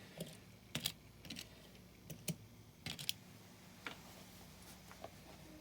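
Light, irregular clicks and taps of a die-cast toy car and its packaging being handled, some coming in quick pairs.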